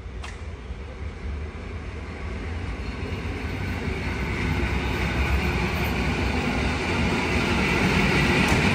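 PKP class EN57 electric multiple unit pulling into the station alongside the platform, its wheels and running gear rumbling louder and louder as the cars draw level and pass close by.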